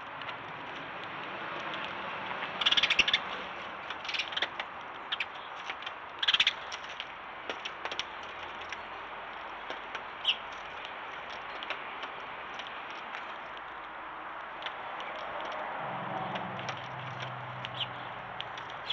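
Short bird calls over a steady outdoor background, two louder ones about three and six seconds in, with scattered light clicks between them. A low steady hum comes in near the end.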